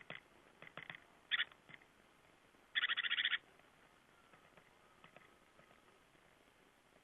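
Small songbirds calling at a winter feeder: a few short sharp notes in the first second and a half, then a loud rapid chattering run of notes about three seconds in, followed by faint scattered calls.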